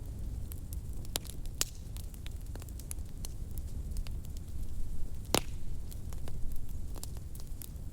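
Wood fire crackling in a fireplace: many scattered sharp crackles over a steady low rumble of the flames, with one louder pop about five seconds in.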